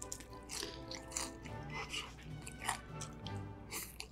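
Close-miked chewing of a mouthful of tteokbokki: a string of short, irregular mouth noises.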